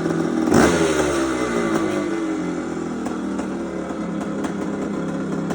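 1976 Maico 440 AW's two-stroke single-cylinder engine running, blipped once about half a second in, then settling back to a steady idle.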